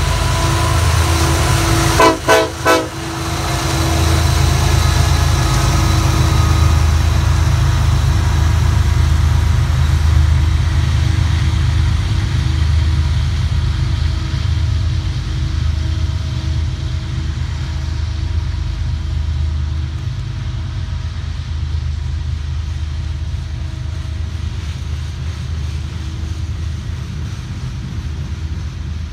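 Freight train rolling past with a steady heavy low rumble that slowly eases. About two seconds in come three quick, loud sharp sounds.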